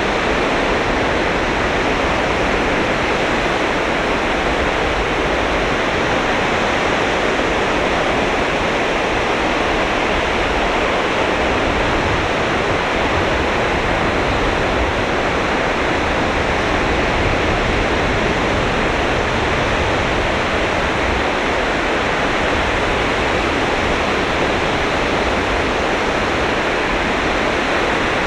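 Sea of Japan surf breaking on a sandy beach, a steady, even rush of waves with no separate crashes standing out.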